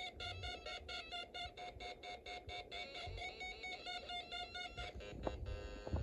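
Electronic beeping from the Snap Circuits kit's small speaker: a keyboard-controlled oscillator, C2 capacitor fitted, giving a fast pulsing stream of tones at about five pulses a second. The tones stop about five seconds in, followed by a couple of clicks.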